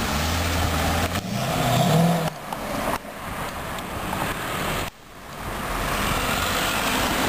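Chevrolet Corvette C6's V8 engine pulling away and accelerating. A steady low rumble rises in pitch about two seconds in. The sound breaks off abruptly a few times.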